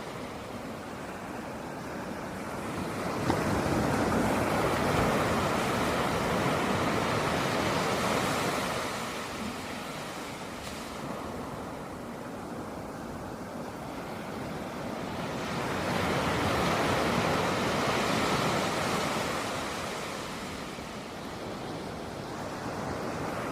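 Sea waves breaking and washing up a beach, a steady rush of surf that swells twice, about 3 seconds in and again about 16 seconds in, with some wind on the microphone.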